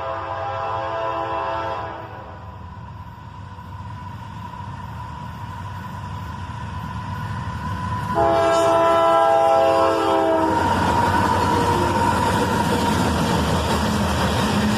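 Freight locomotive horn sounding twice: one blast fades out about two seconds in, and a second starts about eight seconds in and lasts a couple of seconds. Between them the rumble of the approaching CSX GE locomotives grows louder. After the second blast the lead units pass close by with a loud, steady rush of engine and wheel noise.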